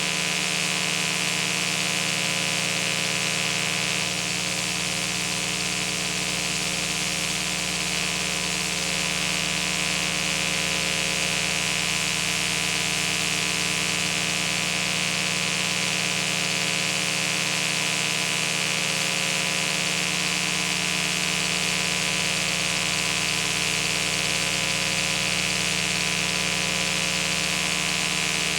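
Steady, unchanging machine-like hum with hiss, made of many fixed tones, with no events.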